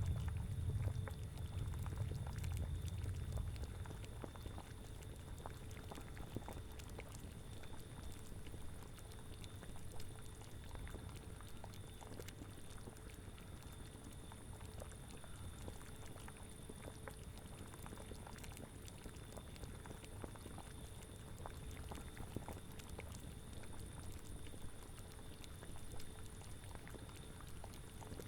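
A cauldron of liquid bubbling at a steady boil, with many small pops. A low rumble is stronger over the first few seconds, then eases off.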